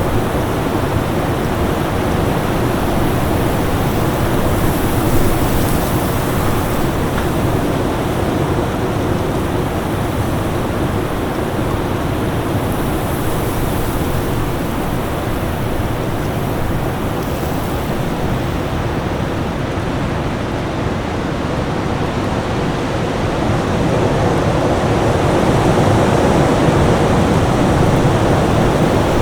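Winter storm wind: a steady, dense rush of noise, swelling slightly louder over the last few seconds.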